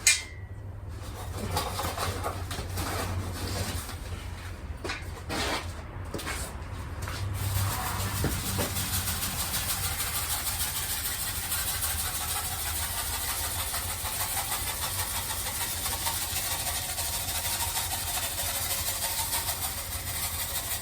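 Clay oil-absorbent granules (oil dry) being fetched and spread on a concrete garage floor. A few knocks and scrapes come first, then a steady hiss of granules from about seven seconds in, stopping near the end, over a low steady hum.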